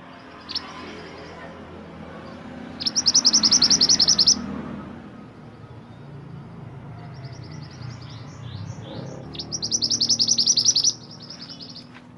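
Mantenan gunung songbird singing: a short high call about half a second in, then two loud, rapid, high-pitched trills, one about three seconds in and another near ten seconds, with softer separate notes before the second.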